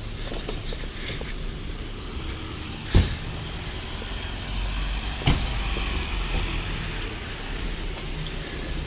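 Car and van engines running at low speed close by as vehicles idle and creep past, with two sharp knocks about three and five seconds in.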